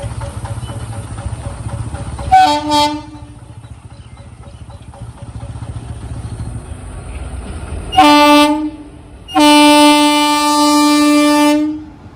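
Train horn sounding: two short toots a couple of seconds in, a shorter blast later, then one long blast of about two and a half seconds near the end, loud over a low steady rumble.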